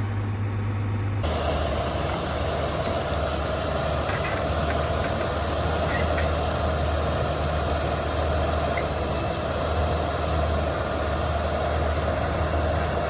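Large diesel engine of farm machinery running steadily with a low hum. The sound changes abruptly about a second in.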